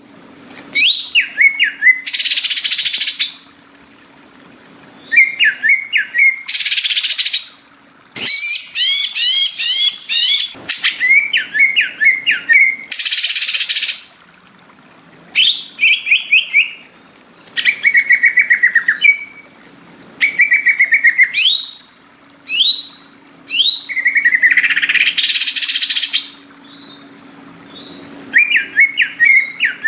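Green leafbird (cucak ijo) singing in loud bursts about one to two seconds long with short pauses between: quick whistled down-slurred notes and rapid chattering trills, alternating with harsh, raspy hissing notes. A faint steady low hum runs underneath.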